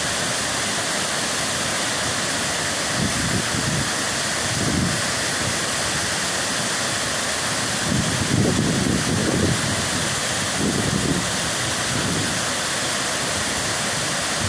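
Waterfall rushing in a steady, even roar, with low rumbles swelling a few times.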